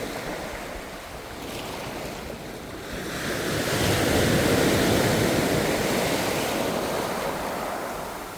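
Ocean surf: a wave breaks and washes in about three seconds in, swelling to its loudest, then slowly fading.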